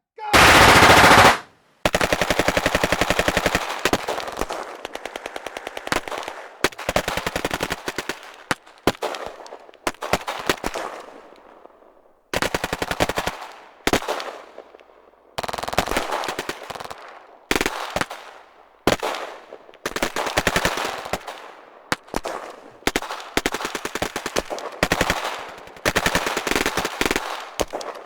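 Machine-gun fire in repeated bursts of rapid shots, some trailing off in echo, with short pauses between runs. A very loud sustained blast of fire lasts about a second at the very start.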